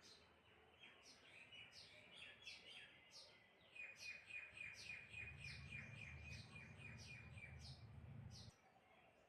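Birds chirping in a quick series of short falling notes, faster and denser in the second half, with a faint low rumble underneath for a few seconds before it stops suddenly.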